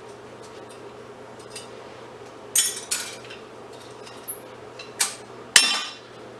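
Pieces of scrap metal clinking and clattering as they are handled and dropped, about four sharp clinks in the second half, over a steady low hum.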